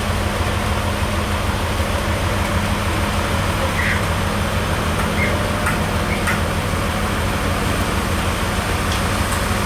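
An engine running steadily at an even speed, with a few faint short high chirps over it.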